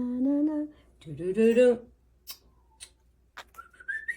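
A woman hums two short phrases of a tune. A few light clicks follow, and near the end a cockatiel gives one whistle that rises in pitch.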